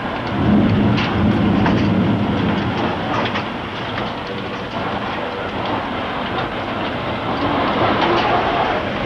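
Continuous freight-train-like roar of a violent F4 tornado passing over at close range, with scattered sharp cracks through it.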